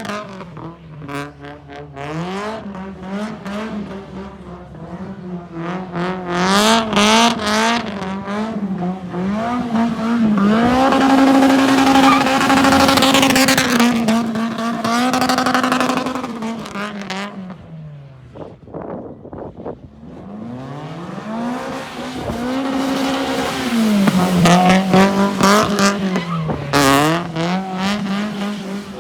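Toyota Altezza's 3S-GE four-cylinder engine being driven hard while drifting: revs rise and fall again and again, held high and steady for a few seconds in the middle, with a dip off throttle about two-thirds of the way through. Tyres squeal through the slides.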